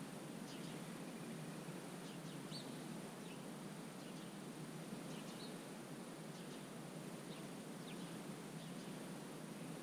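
Small birds giving faint, short high chirps and calls, a dozen or so scattered through, over a steady low rumble of outdoor background noise.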